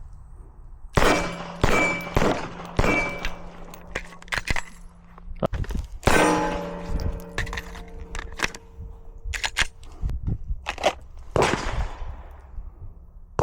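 A string of gunshots fired at irregular intervals, a dozen or more sharp cracks each leaving a metallic, clanging ring behind it.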